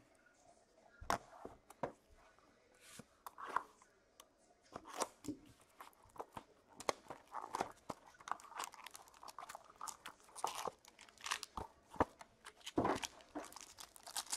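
Trading-card box packaging being torn and crinkled open by hand: a string of short crackles, rips and cardboard taps that gets busier in the second half.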